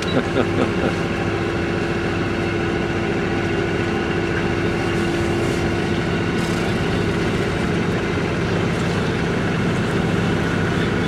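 A boat's engine running at a steady speed, a constant hum with a fixed pitch.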